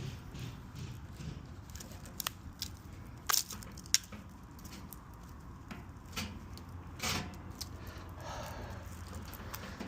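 Scattered clicks, taps and rustles of hands working with tools and parts, with a few sharper knocks about three, four and seven seconds in, over a low steady hum.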